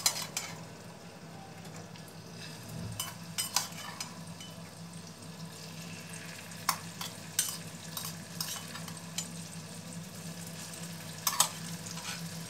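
Squid pieces frying in hot oil in a stainless steel pan, a steady sizzle, with scattered sharp clinks of a spoon against a steel bowl and the pan as the rest of the squid is scraped in.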